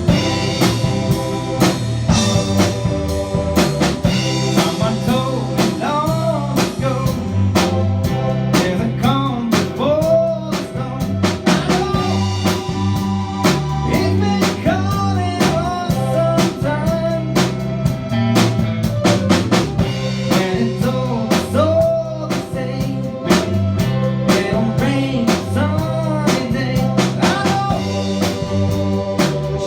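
Live band of drum kit, bass guitar and electric lead guitar playing a steady mid-tempo rock beat, with the lead guitar bending notes over the rhythm.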